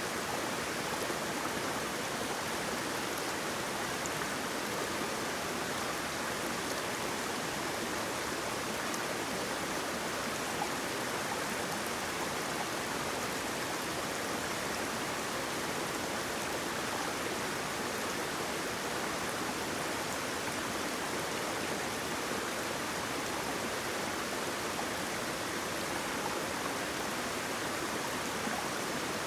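Steady rush of flowing water from a stream or small waterfall, an even hiss without breaks or changes.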